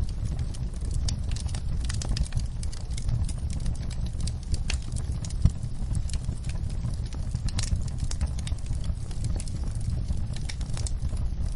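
Wood fire in a fireplace crackling and popping steadily over a low rumble of the flames, with one louder pop about halfway through.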